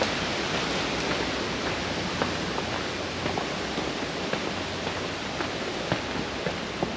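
Steady rushing hiss of outdoor noise, with light footsteps on a trail ticking through it, the steps growing more frequent toward the end.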